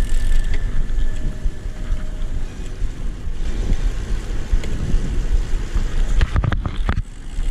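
Wind buffeting an action camera's microphone on a moving road bicycle, a steady low rumble with road noise, and a few sharp knocks about six and a half seconds in.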